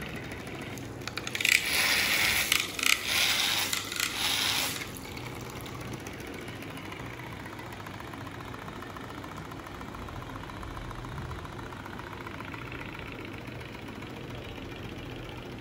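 A small battery-powered DC motor on a homemade toy tractor runs with a steady hum. From about a second and a half in, a loud rattling clatter lasts some three seconds.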